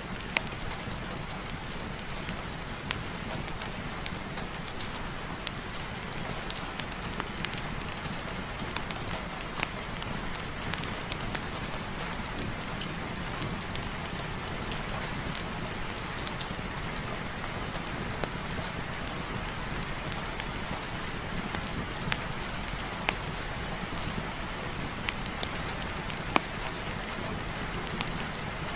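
Steady rain falling, mixed with a crackling fireplace fire: a continuous even hiss with scattered sharp pops and ticks throughout.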